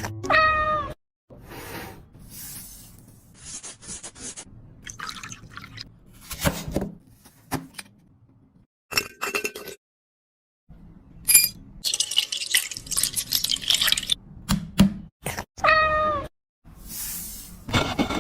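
A cat meowing twice, a short call falling in pitch just after the start and again near the end. Between the calls come scattered kitchen clicks and knocks and a couple of seconds of hissing rush, like running water.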